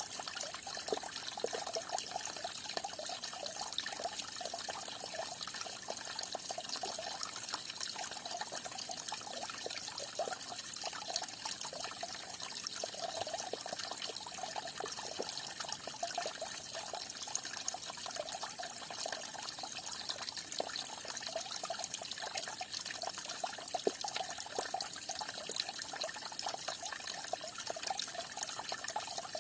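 Small stream of falling water splashing and trickling steadily, with a continuous spattering hiss.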